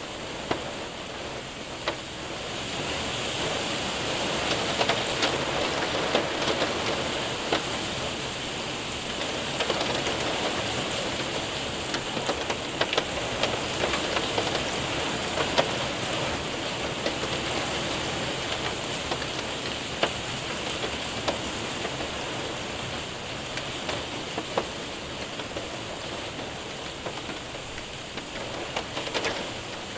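Hail and heavy rain hitting a window and roof: a steady dense hiss of rain, broken by scattered sharp clicks of hailstones striking. The downpour swells a little louder about two and a half seconds in.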